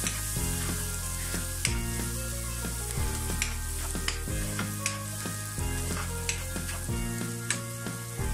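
Onion-and-spice masala sizzling in a frying pan while a spatula stirs and scrapes it, with short strokes of the spatula against the pan. The masala is being fried down in oil, the 'koshano' stage of a bhuna curry. Background music plays underneath.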